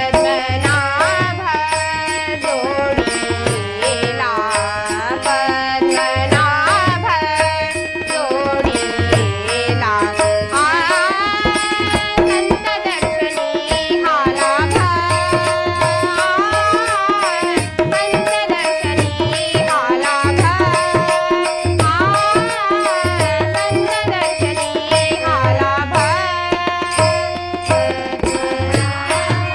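Marathi devotional abhang music: a melody with sliding ornaments over a steady held note, tabla strokes and light high percussion keeping a regular beat.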